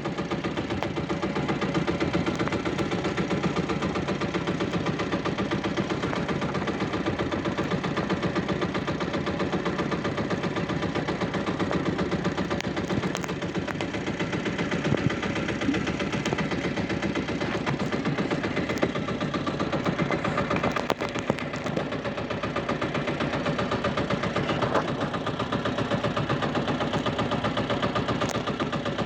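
A fishing boat's engine running steadily, with a fast, even chugging beat.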